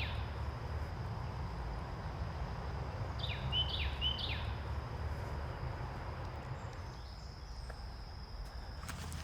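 Woodland ambience: a bird sings a short phrase of a few quick chirped notes, ending just after the start and again about three seconds in. Under it run a steady high insect drone and a low rumble.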